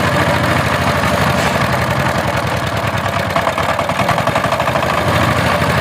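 Diesel power tiller engine running steadily with a fast, even firing beat.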